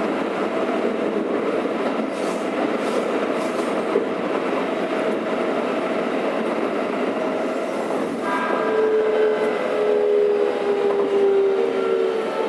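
Keikyu 600-series train heard from inside the car: steady running noise, then from about eight seconds in the Toyo-built VVVF inverter's whine enters as several tones sliding slowly downward in pitch as the train brakes toward the station.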